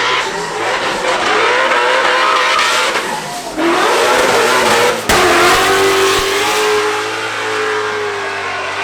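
Rally car's engine revving hard as it accelerates away, the pitch wavering and rising, with a sharp drop about three and a half seconds in. A sudden loud surge follows about five seconds in, then a steadier, slowly falling tone that fades near the end.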